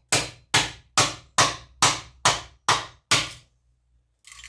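Hammer repeatedly striking an old electronic unit being broken open for scrap: eight sharp blows at a steady pace of about two a second, each ringing briefly, stopping about three and a half seconds in.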